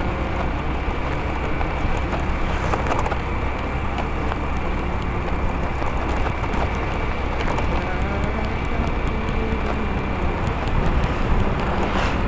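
Motorcycle riding along a road: the engine runs steadily under heavy wind rumble and buffeting on the microphone.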